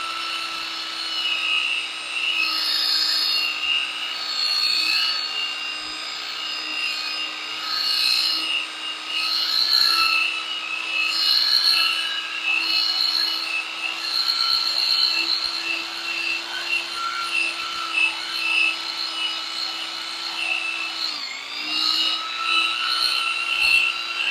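Motor-driven buffing wheel running steadily while buffing carnauba wax onto a wood-and-resin board, with a constant hum and uneven rubbing noise as the wheel works the surface. Its pitch dips briefly near the end as the wheel is loaded against the board.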